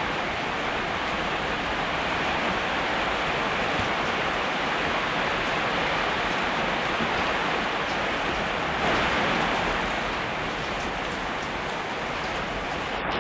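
Heavy rain falling steadily, a dense even hiss that swells a little about nine seconds in.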